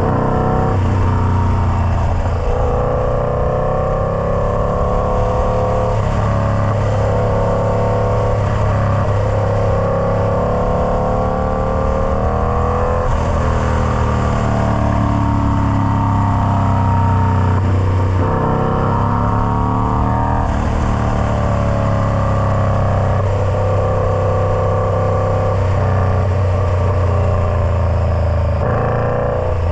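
Indian Scout Bobber V-twin running through a Freedom Performance Combat 2-into-1 exhaust. The engine note climbs over a few seconds and drops back sharply, over and over, under a constant low drone.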